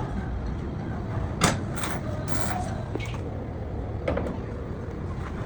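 Steady low workshop rumble with several sharp knocks or clanks, the loudest about a second and a half in.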